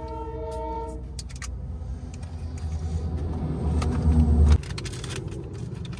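Train horn sounding a steady chord that ends about a second in, followed by a deep rumble from the passing train that builds and cuts off suddenly after about four and a half seconds. A few sharp clicks come just after.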